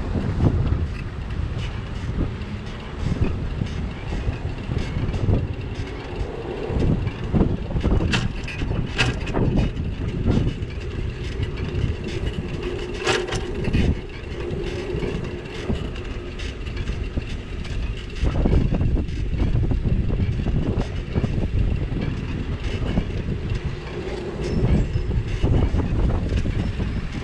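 Rumble and rattle of a bicycle ride heard through a camera mounted on the bike: steady low road and wind noise with knocks and clatters over bumps in the street.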